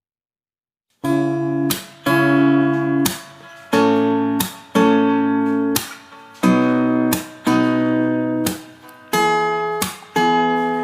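Background music: an acoustic guitar strumming chords, each struck and left to ring, about one a second, starting after a second of silence.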